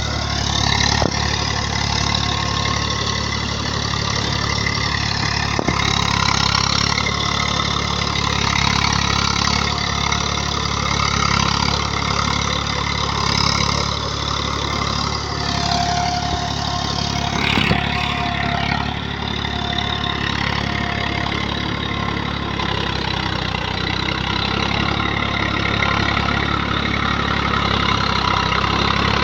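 Tractor diesel engine running steadily, with a few faint clicks.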